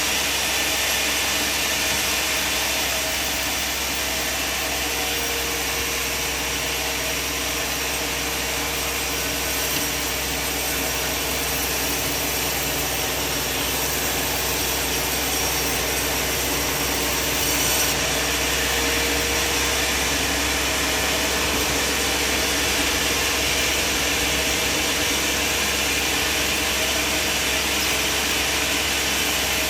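Band sawmill running and sawing timber, with a steady, even machine noise.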